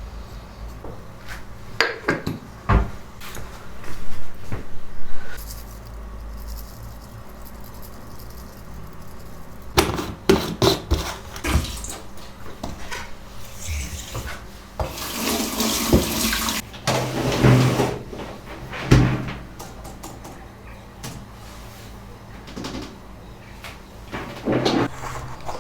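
Water running from a sink tap for a couple of seconds, among scattered knocks and clinks of kitchen work.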